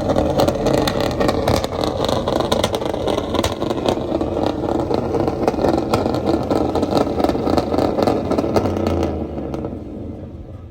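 Car engine revving hard and held at high rpm, with a crackling, clattering edge, fading away near the end.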